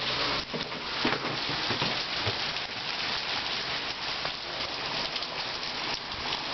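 Heavy thunderstorm rain falling steadily: a dense, even hiss made of countless small drop strikes.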